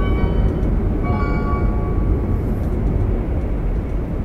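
Hokuriku Shinkansen train running at speed, heard inside the passenger car: a steady low rumble of running noise.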